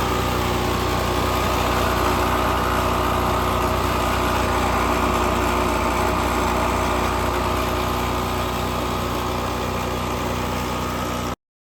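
Generac GP5500 portable generator's single-cylinder engine running at a steady speed, warming up after a cold start with starting fluid. The sound cuts off abruptly near the end.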